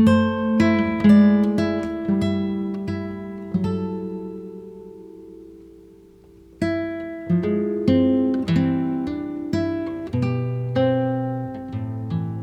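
Background music on a plucked acoustic guitar: single notes and chords ringing out and fading, a pause about six seconds in, then a new phrase.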